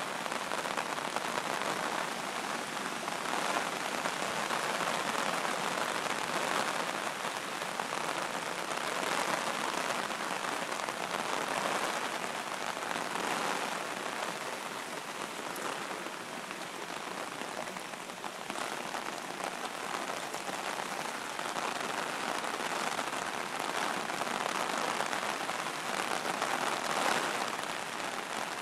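Heavy hurricane rain pouring down steadily, its hiss swelling and easing every few seconds.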